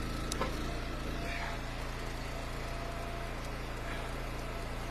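The wood splitter's small gas engine idling steadily, with a light click about a third of a second in.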